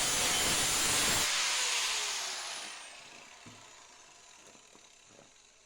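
Small electric power sander running on the barrel's metal, switched off about a second in; its motor winds down with a falling whine that fades over the next few seconds, with a few light knocks.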